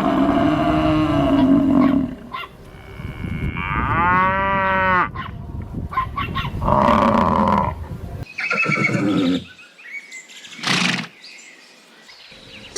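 Farm animals calling, one after another: a loud, long call over the first two seconds, a shorter call that rises and falls about four seconds in, then several more calls, with the background changing abruptly between them.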